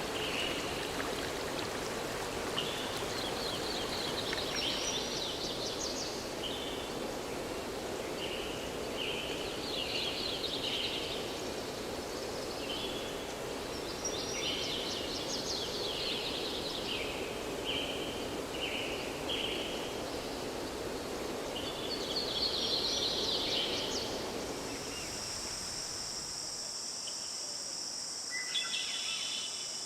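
A running stream with birds calling again and again over it. About 25 seconds in, the water fades and a steady high insect trill, typical of crickets, takes over.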